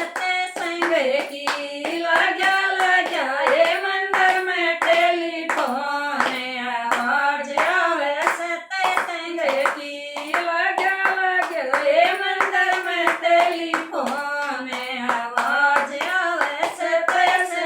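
A devotional bhajan sung unaccompanied, with steady rhythmic hand clapping keeping time at about three claps a second, in a small room.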